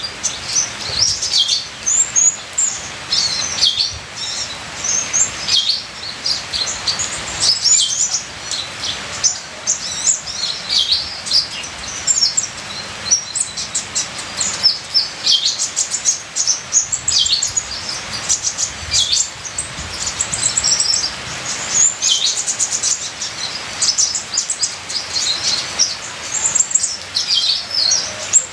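A sunbird of the kind Indonesian keepers call kolibri ninja, singing a continuous, rapid, high twittering song of short chirps and trills, with a stretch of fast ticking notes partway through. A steady trickle of rain water runs underneath.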